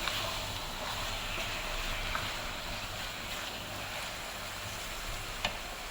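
Marinated chicken sizzling as it fries in a pan: a steady hiss with a couple of faint clicks.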